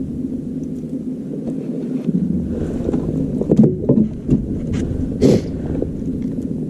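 Handling knocks and clunks on a kayak over a steady low hum, with a brief rush of noise about five seconds in.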